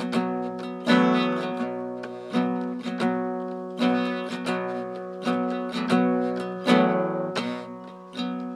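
Acoustic guitar strumming a slow, steady chord pattern in an instrumental break of the song. Each strum rings out and fades before the next.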